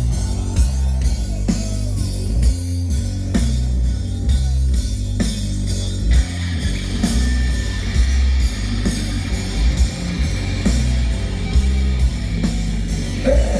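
A hardcore band playing live: distorted guitar, heavy bass and a drum kit, loud and continuous.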